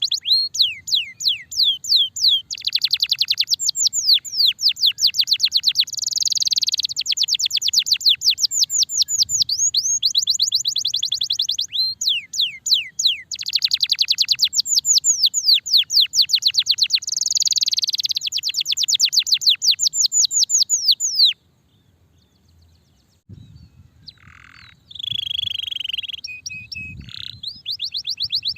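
Canary singing a long song of rapid rolls: high notes, each sweeping quickly downward, repeated many times a second in long runs. About three-quarters through the song breaks off abruptly, and after a brief silence it resumes with a few slower, different notes before the rapid rolls return near the end.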